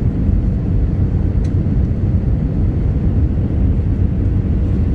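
Steady low rumble of engine and airflow noise heard inside the passenger cabin of a British Airways Airbus A319.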